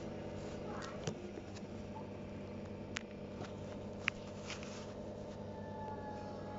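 Coturnix quail chick hatching out of its egg: small sharp clicks and taps as it breaks through the shell, over a steady machine hum, with faint thin peeps near the end.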